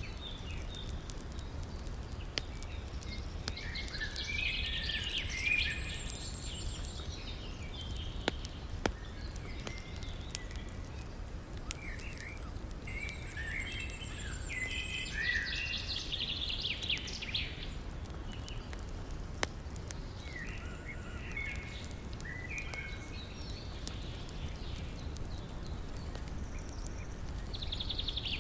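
Songbirds singing in short chirping phrases every few seconds over a steady low rush of river water, with a few sharp pops from a crackling wood fire.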